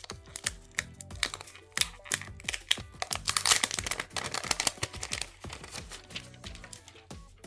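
Thin protective plastic film being peeled off a new hair dryer, crackling and crinkling in quick runs of small clicks, thickest around the middle. Background music plays underneath.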